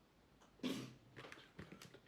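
A short breathy sound from a person's mouth or throat, like a huff or small cough, followed by a few faint clicks and scratches.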